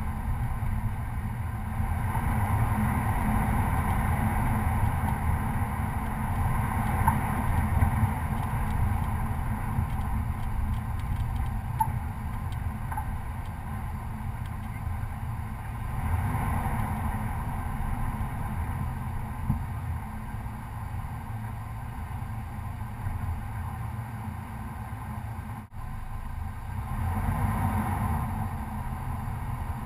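Chevy Colorado pickup's engine and drivetrain running as the truck drives a dirt trail: a steady low rumble that swells and eases with the throttle several times, with a few light knocks.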